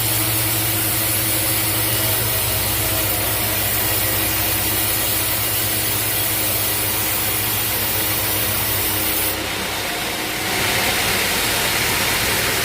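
Portable bandsaw mill running, its engine humming steadily while the band blade saws through a teak log. About nine to ten seconds in the sound dips briefly, then comes back hissier.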